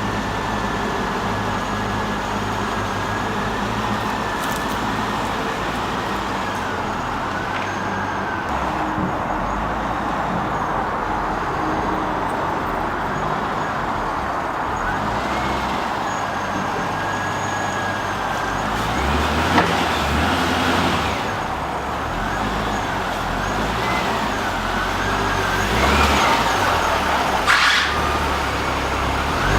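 Flatbed tow truck running steadily, with a thin whine that wavers up and down in pitch over the engine noise. A couple of sharp knocks come in the second half.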